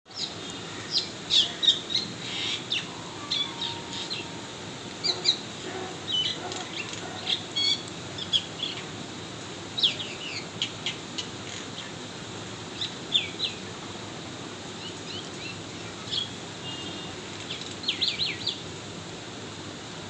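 Birds chirping: a run of short, high chirps and quick downward-sweeping notes. They are busiest in the first half, then thin out, with a quick cluster near the end.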